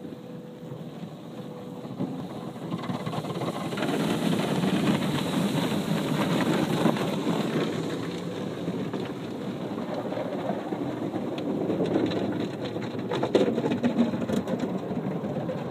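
Automatic car wash heard from inside the car: a steady rush of water spray and washer machinery against the body. It grows louder a few seconds in, with a few sharp knocks near the end.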